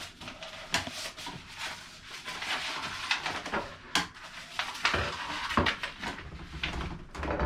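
Rustling and clattering as props are handled and a paper treasure map is brought out, with irregular knocks and clicks over a steady rustle.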